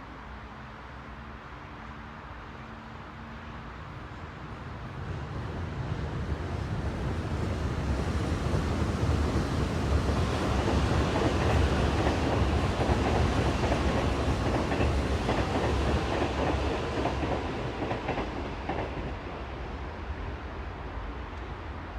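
A heavy vehicle passes by: a dense, low rumbling noise swells over several seconds, peaks about halfway and then fades away.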